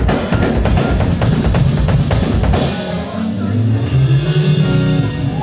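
Live drum kit playing a busy run of rapid bass-drum and snare hits, with sustained low bass notes coming in about three seconds in.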